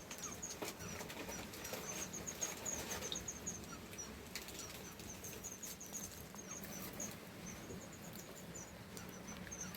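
A small bird chirping faintly: short, high notes repeated in quick runs, with brief pauses between runs.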